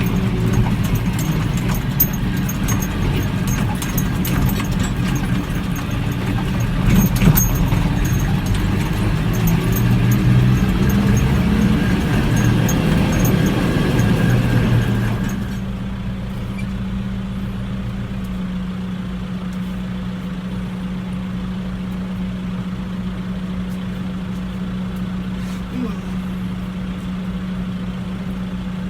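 Tractor engine running hard with rattling and clicking, then about halfway through it drops to a steady, quieter idle.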